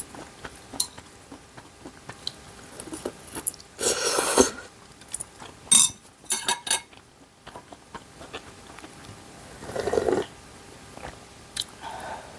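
Eating sounds of ramen and dumplings: scattered clicks of utensils against dishes and chewing, with two longer, louder sounds about four and ten seconds in.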